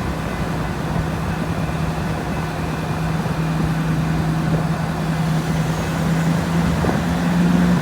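Diesel locomotive engine running steadily with a low hum. Its pitch and loudness step up slightly near the end as the engine speeds up.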